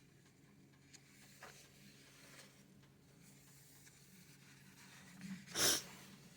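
Paper rustling as the pages of a book are handled and turned: faint rubbing, then one louder swish of a page about five and a half seconds in.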